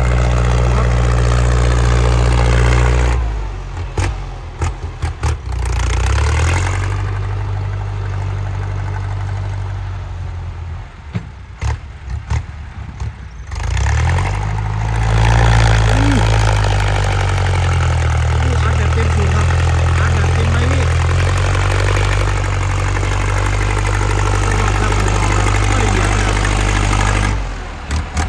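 Ford 6640 tractor's diesel engine working hard with a loud exhaust while pushing dirt. The engine drops back about three seconds in and runs quieter for a while, with a few knocks near the middle. It then comes back up to a strong, steady pull and eases off again near the end.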